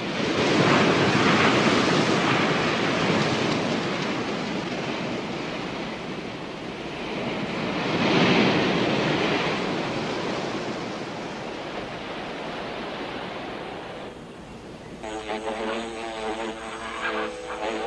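Surf washing up a beach, swelling about a second in and again about eight seconds in, then dying down. For the last few seconds a buzzing sound with several stacked tones takes over.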